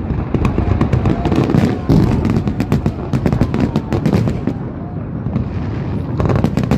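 Fireworks display salute bursting in rapid succession: many sharp bangs overlapping one another, thickest in the first couple of seconds and again near the end, with crowd voices underneath.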